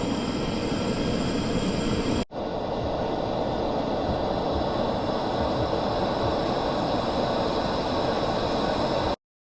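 Gas stove burner running with a steady roar under the espresso maker; the sound drops out briefly a little over two seconds in and cuts off suddenly near the end.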